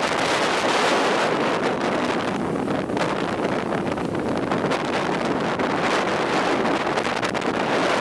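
Strong mountain wind blowing hard across the microphone: a loud, steady rushing noise that eases slightly about two and a half seconds in.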